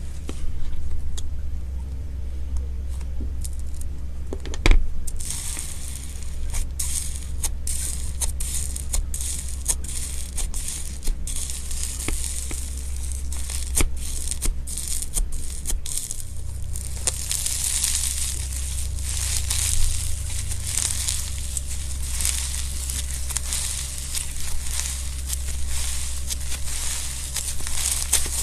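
Slime being handled, pressed and pulled, giving a running series of small crackles and crinkling pops that grow denser in the second half, with one sharper click early on. A steady low hum runs underneath.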